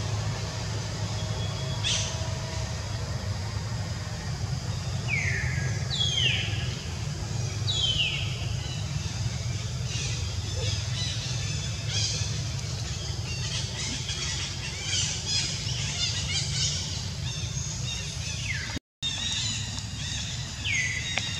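Birds calling in forest canopy: several short, curved calls that sweep downward, with quick chirps and twitters between them, over a steady low hum of outdoor background noise.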